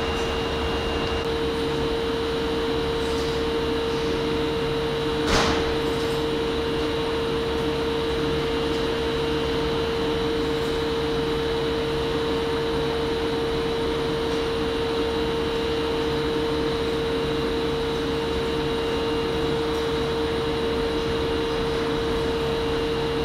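Steady running noise of an electric train, with one constant tone held throughout. A single sharp click sounds about five seconds in.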